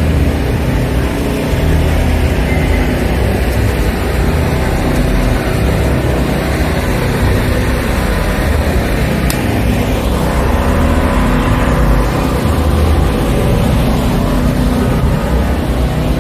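A car's engine running steadily with a deep, low rumble.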